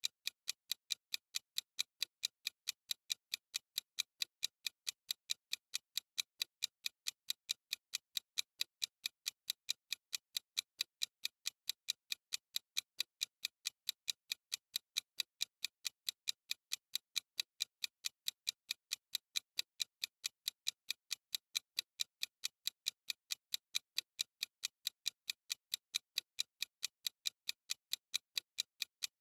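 Clock-style ticking of a timer sound effect: short, sharp, even ticks, several a second, steady throughout.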